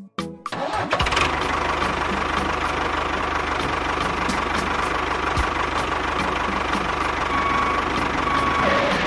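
An engine running steadily with a fast low chugging. It starts about a second in and stops near the end.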